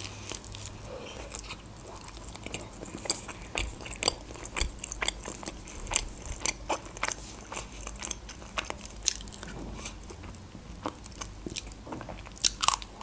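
A woman biting into and chewing a slice of pizza close to the microphone: many small crunches and wet mouth clicks, with a louder bite near the end.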